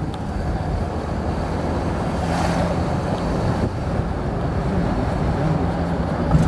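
Steady rumble of a car on the move: road and engine noise.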